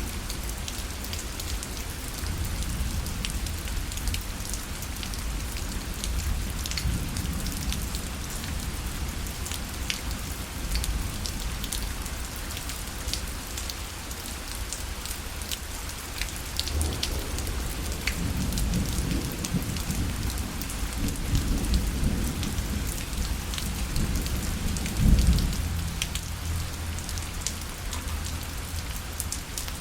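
Steady rain falling on a parasol canopy, with individual drops ticking sharply on the fabric. About halfway through, a low rumble of thunder builds, peaks a few seconds before the end, then fades.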